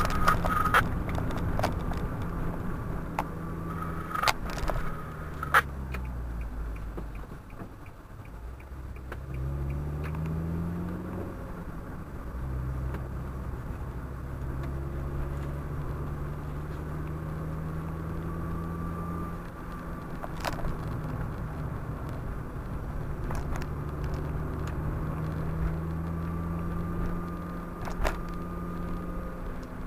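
Car engine and road noise heard inside the cabin. The engine drops in pitch as the car slows and runs low for a few seconds, then rises as it pulls away, shifts up and settles to a steady cruise. Two sharp knocks sound about four and six seconds in.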